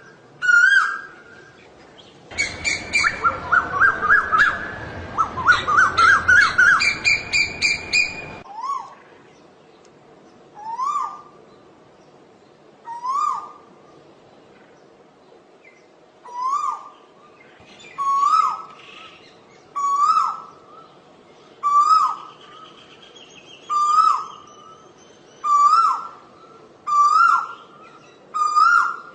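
Asian koel calling: a loud run of rapid, excited repeated notes, then a long series of single upslurred whistled notes, about one every one and a half to two seconds, coming slightly faster as the series goes on.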